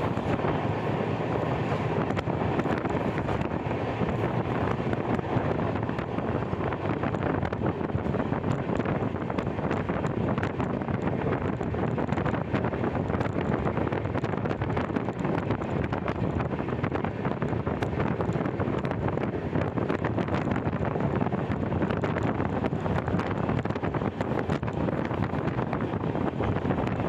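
Passenger train running at speed, heard from an open coach door, with steady wind buffeting the microphone.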